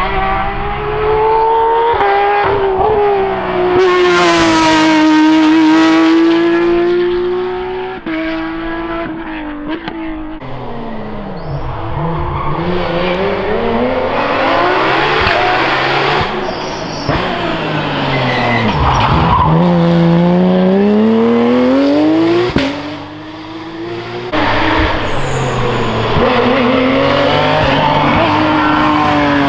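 Porsche rally cars at full throttle on a stage: engines revving up and shifting through the gears, with tyres squealing. Twice a car passes close by, its engine pitch dropping as it goes. The sound changes abruptly a few times as one car gives way to the next.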